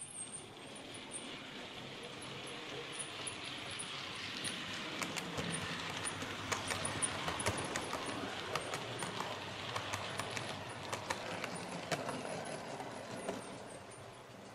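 OO gauge model train running past on its track: a rolling rattle that grows louder, peaks with a quick run of clicks from the wheels over the rail joints, then fades away.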